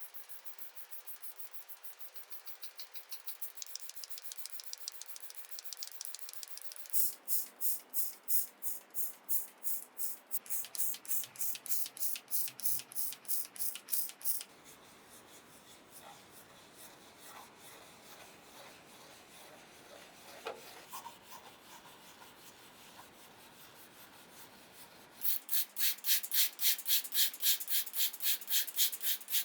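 Rhythmic back-and-forth rubbing strokes of hand abrasive work on the small rusty metal parts of a model truck, about three strokes a second. The strokes come in two louder stretches, with softer, quieter rubbing between them.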